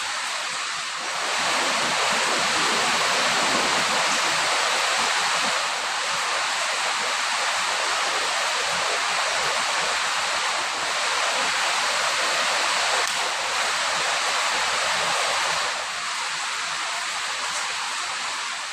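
Water running steadily from a kitchen tap, as when rinsing dishes, getting louder about a second in and dropping back near the end.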